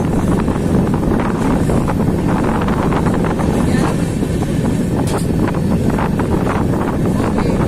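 Steady rumble of an Indian Railways express train running at speed, with wind buffeting the microphone held out of the coach door, and scattered clacks of the wheels on the rails.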